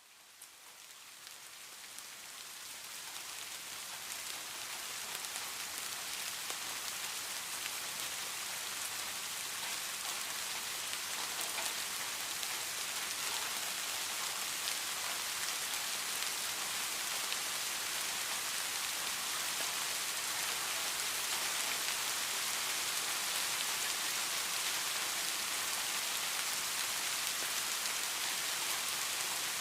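Steady heavy rain falling, an even hiss of many drops that fades in over the first several seconds and then holds level.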